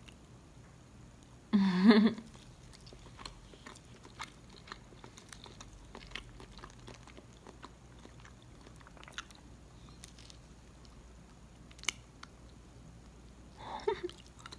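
Close-up mouth sounds of a person chewing a soft, sticky cassava and palm-sugar cake (lapet ubi), with many small wet clicks. About a second and a half in there is a short, louder hummed vocal sound, and a smaller one near the end.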